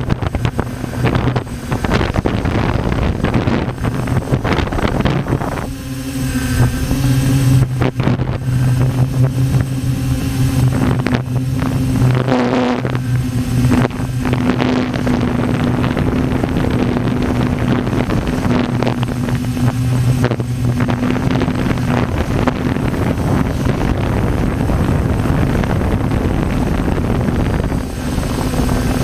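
Helicopter in flight: a steady engine and rotor drone, with wind buffeting the microphone.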